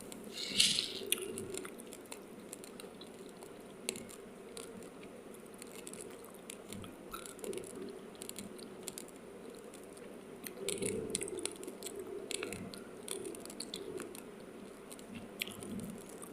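Raw sticky rice grains being chewed, with sharp irregular crunches as the hard grains crack between the teeth. The loudest crunch comes about half a second in, and softer chewing runs underneath.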